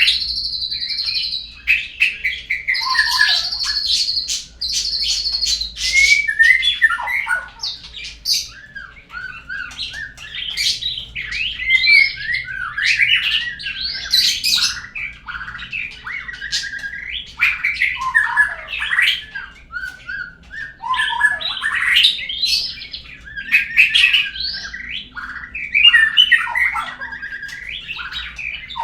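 Murai lure song, played to prompt a caged bird to sing: a long run of varied whistled phrases mixed with harsher notes. Held high whistles repeat in the first few seconds, then quick sliding and chattering phrases follow without a break.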